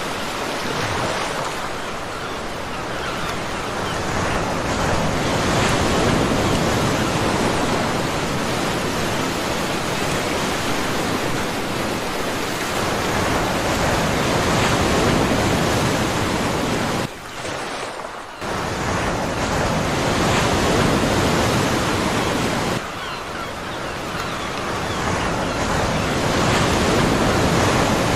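Big ocean waves breaking and washing up a beach, a loud, dense, continuous rush of surf. It drops out sharply for about a second a little past the middle.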